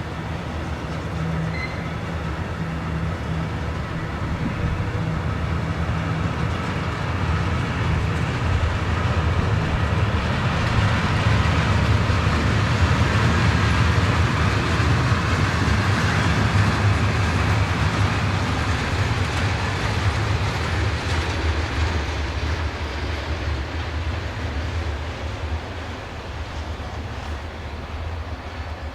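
A train passing on the line, its rumble and wheel noise with clickety-clack building to its loudest about halfway through, then fading away.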